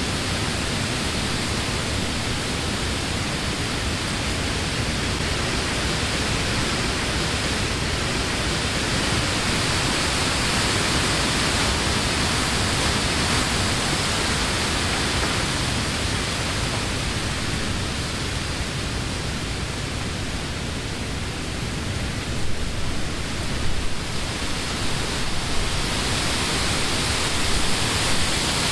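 Summer wind blowing through leafy trees: a steady rush of leaves that swells and eases, with stronger, uneven gusts in the last few seconds.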